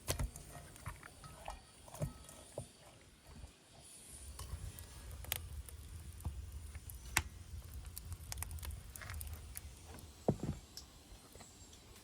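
Light clicks and knocks of hands and utensils at work on fish being prepared for frying, a few sharper knocks standing out, over a low rumble from about four seconds in until near the end.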